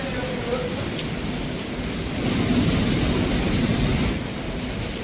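Heavy rain falling steadily, with scattered drops ticking close by. A low roll of thunder rumbles from about two seconds in and fades about two seconds later.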